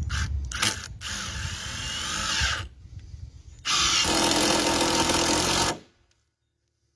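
Handheld power drill running in two bursts, the first shorter with its pitch shifting, the second louder and steady, each stopping abruptly.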